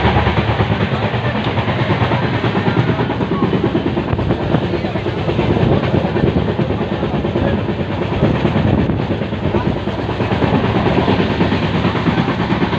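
Inside a moving Indian Railways passenger coach of the GT Express: the train running along the track with a steady, loud rumble and rattle.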